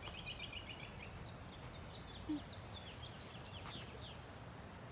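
Wild songbirds calling: a quick trill of repeated high notes lasting about a second, then scattered short chirps, over a low steady outdoor background hum.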